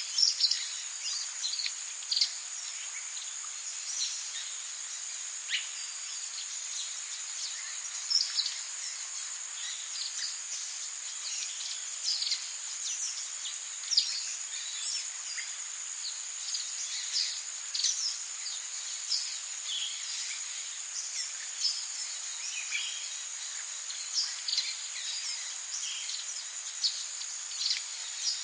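Tropical rainforest ambience: a steady high-pitched insect drone with frequent short bird chirps scattered throughout, over a soft rain hiss.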